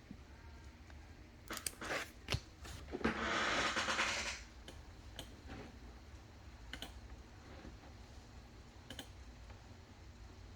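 Trading-card packs and cards being handled: a few sharp crinkles, then about three seconds in a noisy rip lasting just over a second as a foil pack wrapper is torn open, followed by faint ticks of cards being handled.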